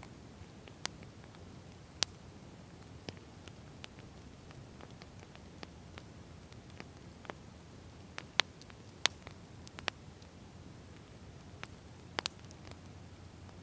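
Wood fire crackling: about a dozen sharp, irregular pops and snaps over a low, steady hiss of the burning fire.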